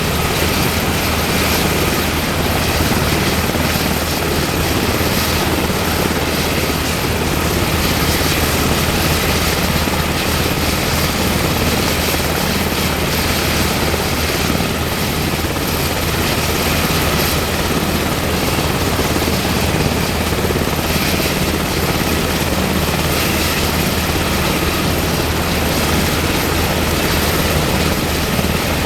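UH-60M Black Hawk helicopter running at close range: its twin turboshaft engines and rotor make a loud, steady noise that holds its level without rising or fading.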